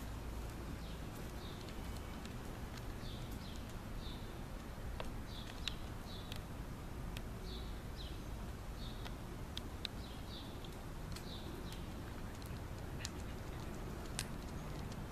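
A small bird chirping repeatedly in short high notes, about one a second, over a low steady outdoor hum, with scattered light clicks.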